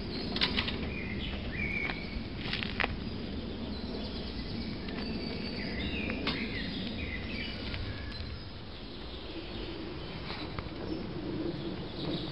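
Woodland birds giving scattered short chirps over a steady low rumble, with a few sharp clicks.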